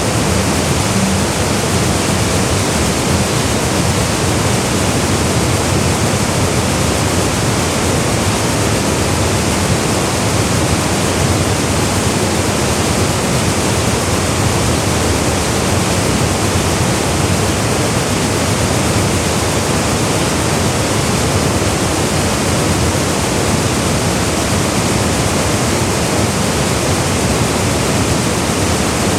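Waterfall pouring into a gorge, a steady, even rush of falling water with no breaks.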